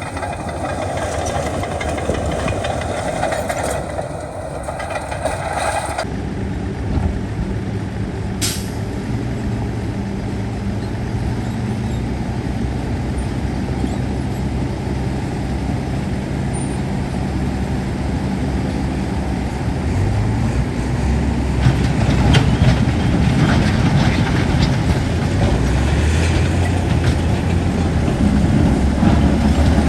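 Heavy diesel engine of earthmoving machinery running steadily. The sound changes abruptly about six seconds in. About twenty seconds in, the engine note rises under load, with irregular rattling and knocking after it.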